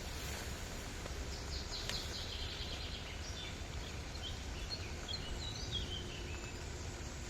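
A songbird chirping, a run of quick high notes, the last few stepping down in pitch, over a steady low outdoor rumble.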